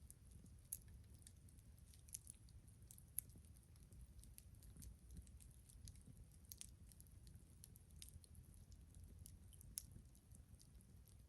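Wood campfire crackling faintly, with irregular sharp pops and snaps and a few louder ones, over a low steady rumble.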